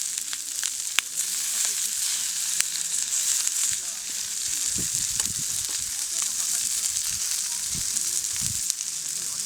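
Food frying over a campfire: a steady high sizzle with occasional sharp pops, and a few low bumps midway and near the end.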